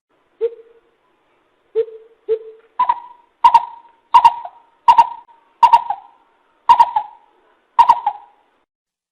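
Coucal (bìm bịp) calling: three spaced deep hoots, then from about 3 s a regular series of higher, sharper notes about every two-thirds of a second, each dropping slightly at its end.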